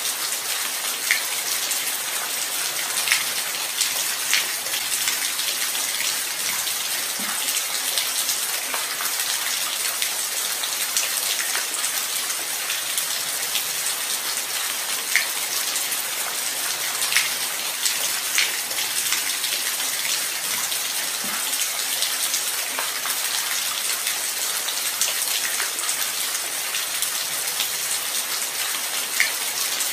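Steady light rain, a hiss with scattered louder individual drops ticking every few seconds.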